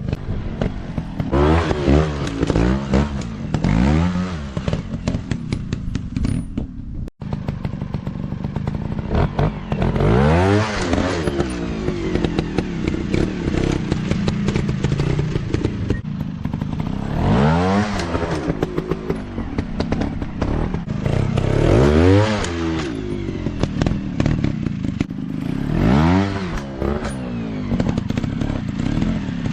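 Off-road dirt bike engines revving up and falling back again and again, with the rev swings repeating every few seconds, typical of riding over rough trail terrain. The sound cuts out briefly about seven seconds in.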